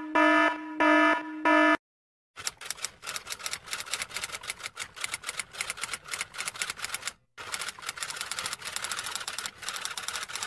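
An electronic buzzer beeps three times, each a steady tone. After a short gap come rapid typing clicks that run for about eight seconds, with one brief break in the middle.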